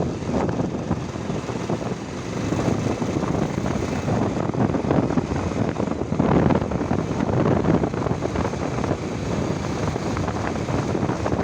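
Motorcycle on the move: wind rushing and buffeting over the microphone, mixed with engine and road noise, steady throughout.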